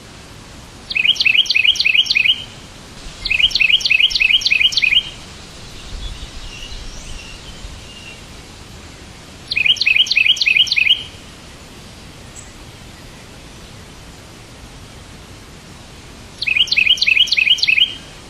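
A bird singing in four short bursts, each a quick run of about six sharp, high chirps lasting a second and a half. The bursts come about a second in, near three seconds, near ten seconds and near the end, over a steady background hiss, with a faint softer warble between the second and third bursts.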